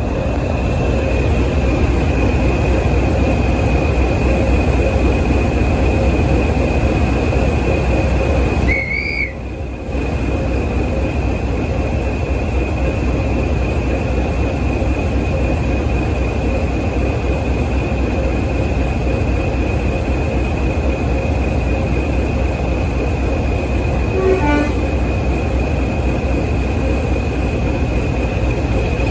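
Diesel locomotive engine running steadily and loudly, with a constant high whine over the low engine note. About nine seconds in a brief high whistle sounds.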